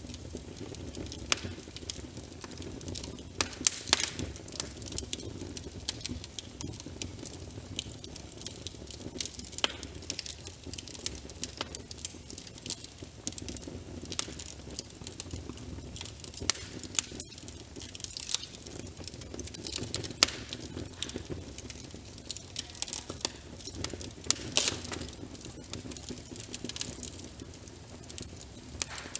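Rain pattering on a window, layered with a wood fire crackling, with irregular sharp pops scattered throughout over a steady low rushing bed.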